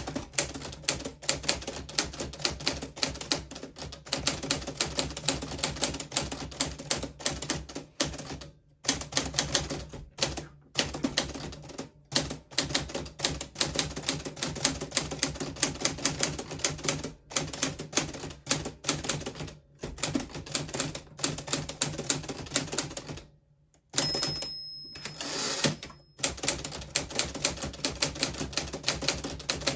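1940s Smith Corona Silent manual typewriter being typed on at a steady pace: fast runs of key strikes with a few short pauses, and a brief high ring about three-quarters through.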